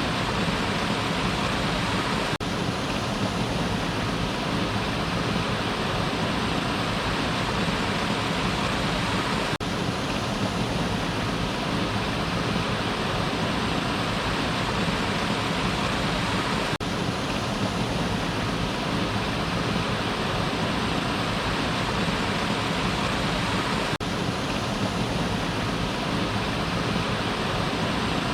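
Waterfall: water falling and rushing steadily, an even roar with no change in level.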